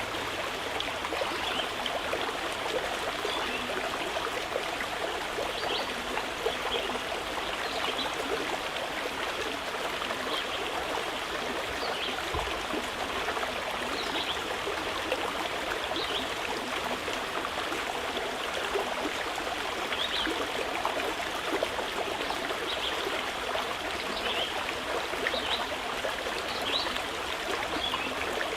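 Mountain river flowing steadily over rocks, with short high bird chirps every second or two.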